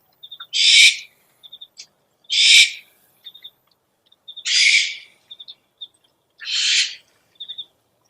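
Owl screeching: four harsh, hissing screeches about two seconds apart, with short faint high chirps between them.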